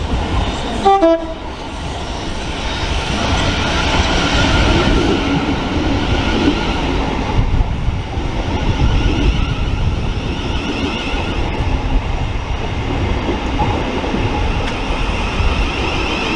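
Electric multiple-unit train moving through the station: a steady rumble of wheels on rail with a faint motor whine. A short horn toot sounds about a second in.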